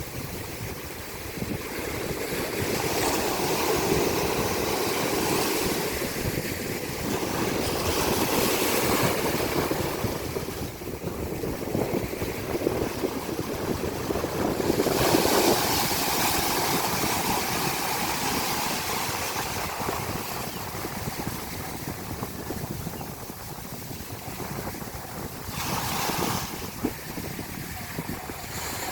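Ocean surf on a beach: waves breaking and washing up the shore in repeated swells every few seconds, with some wind on the microphone.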